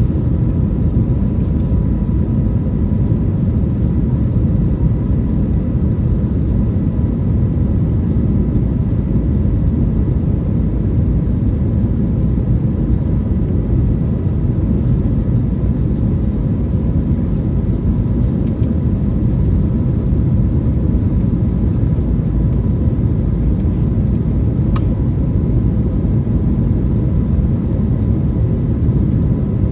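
Steady low roar of an Airbus A321neo's jet engines and airflow heard inside the passenger cabin in flight, with a faint steady whine above it and a faint click near the end.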